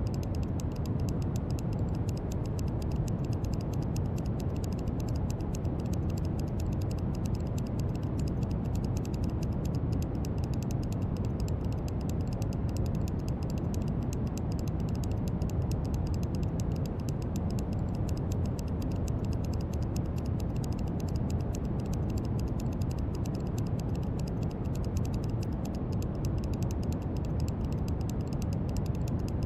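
Brown noise: a steady, even hiss with most of its weight in the low end, fading toward the highs, unchanging throughout.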